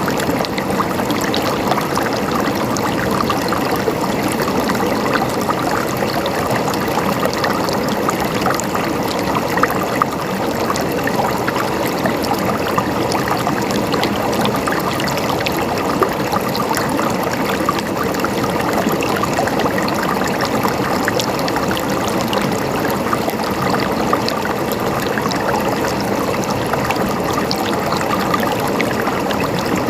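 Running water flowing and gurgling steadily, with fine splashing all through.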